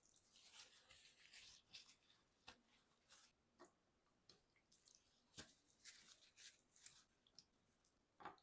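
Faint, scattered clicks and brief rustles of hands handling food and utensils during kitchen prep, with a sharper tick near the end.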